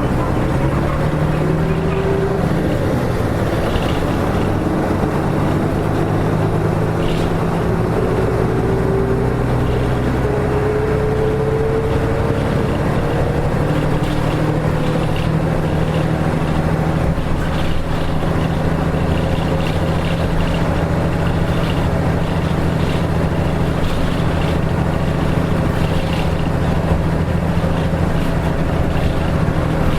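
Nissan Diesel KK-RM252GSN route bus running, heard from inside: the diesel engine drones steadily while a drivetrain whine rises in pitch over the first ten seconds as the bus gathers speed, then holds steady at cruise.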